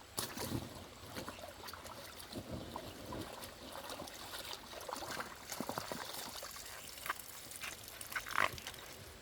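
Shallow water splashing and trickling, with many irregular small clicks and knocks and one louder splash near the end.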